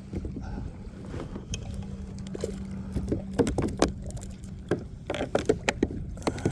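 Irregular splashes, knocks and rattles, thickening about halfway through, as a small bluefish on the line is brought to the kayak and handled. A steady low hum runs underneath for the first half.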